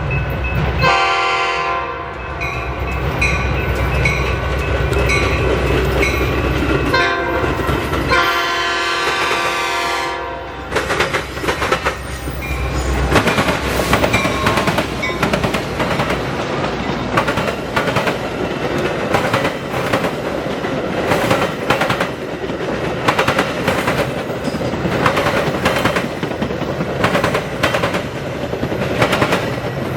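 Freight train going by: the diesel locomotive sounds its horn twice in the first ten seconds over a deep engine rumble, then the rail cars roll past with wheels clacking steadily over the rail joints.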